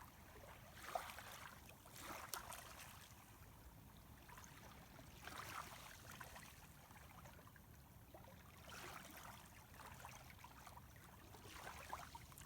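Faint, calm sea water lapping at the shoreline, small wavelets washing in softly every few seconds.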